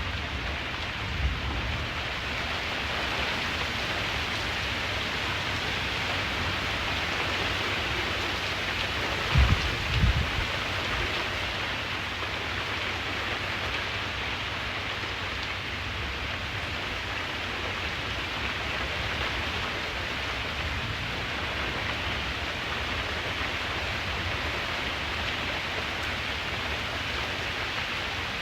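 Steady rain falling, an even hiss of drops throughout. A couple of short low thuds come about a third of the way in.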